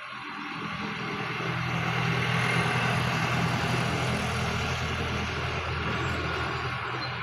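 An engine running steadily, growing louder over the first two or three seconds and then easing off a little.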